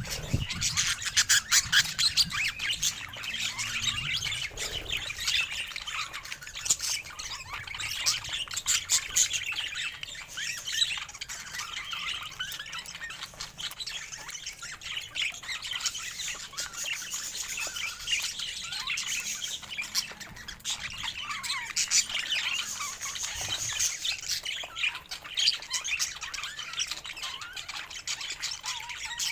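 Budgerigars chattering: a dense, continuous stream of quick chirps and short calls.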